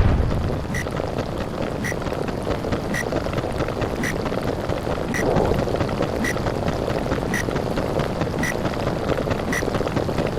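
Underwater sound effect: a steady, muffled rumble of moving water, with a faint short tick about once a second.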